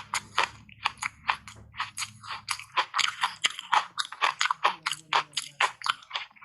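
Close-miked crunching and chewing of ice coated in matcha powder: a rapid run of sharp crunches, several a second.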